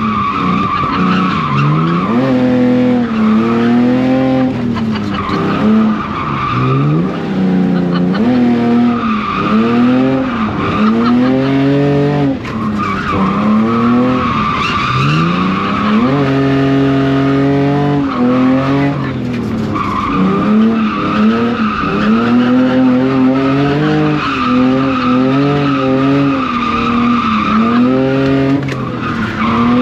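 E46 BMW drift car's engine revving up and falling back over and over as the car is drifted, with tyres squealing in long stretches through the slides.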